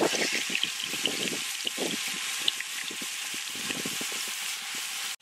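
Pieces of marinated chicken sizzling in hot oil and butter, a steady hiss with small crackling pops, as more pieces are lowered into the bubbling fat.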